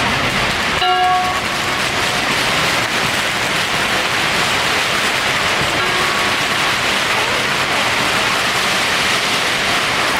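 Strings of firecrackers crackling continuously in a dense, unbroken rattle. About a second in a short ringing tone sounds over it, and a fainter one comes near six seconds.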